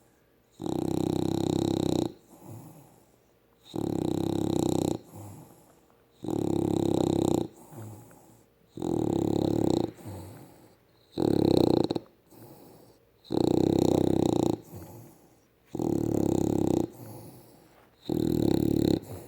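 A dog snoring in its sleep: eight loud snores about two and a half seconds apart, each a little over a second long, with soft breaths between.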